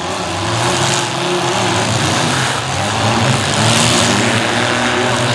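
Several midsize demolition derby cars' engines running and revving together, a steady din of overlapping engine notes rising and falling, with no single crash standing out.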